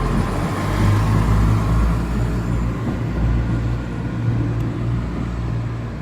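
Two coupled Class 170 Turbostar diesel multiple units pulling away, their underfloor diesel engines under power with a steady low drone.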